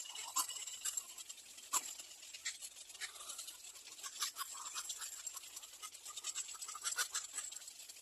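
Scratchy rustling of nest material with irregular clicks, several each second, as birds shift about in the nest.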